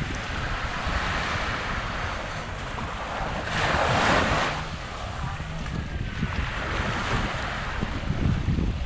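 Small waves breaking and washing up on the beach, with one louder wave surging about three and a half seconds in, while wind buffets the microphone with a low rumble.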